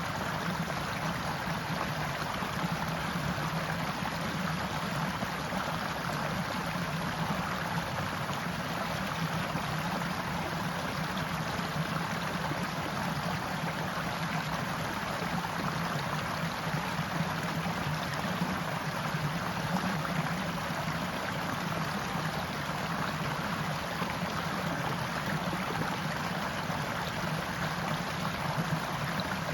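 Forest stream flowing steadily, a continuous rush of running water.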